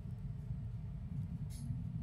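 Low, steady rumble of a train running along the track, with one brief high click about a second and a half in.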